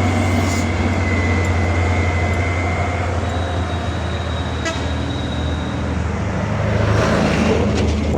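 Heavy truck engine running with a low, steady drone amid road traffic. A thin high tone sounds over it for the first few seconds, then a higher one midway.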